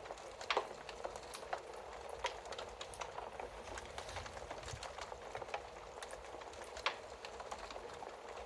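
Wood fire burning in a fireplace: a steady hiss with frequent small crackles and a few louder pops, the loudest about half a second in and just before the end.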